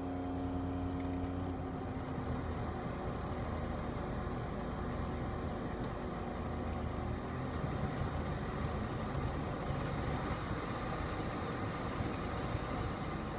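Mitsubishi Delica D:5 heater/air-conditioning blower motor running with an abnormal noise, a steady, rough sound, with a humming tone that dies away in the first second or two. The noise marks a blower-motor fault covered by a recall.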